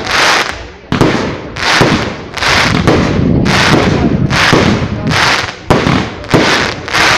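Fireworks going off: a steady string of loud bangs, a little more than one a second, each trailing off into a crackling hiss.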